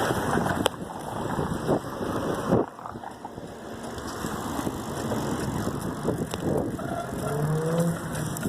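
Street traffic noise and wind rumbling on the microphone during a bicycle ride along a road, with a sharp click about a second in.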